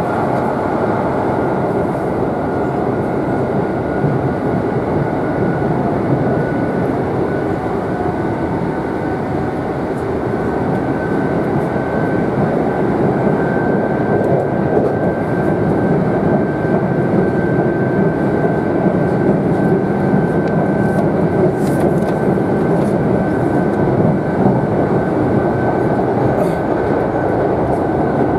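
Kintetsu electric train running, heard from inside the passenger car: a steady rumble of wheels on track with a high whine that rises slightly in pitch over the first half, then holds.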